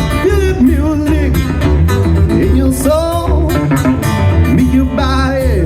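Live music: a guitar and singing over a steady bass and drum beat.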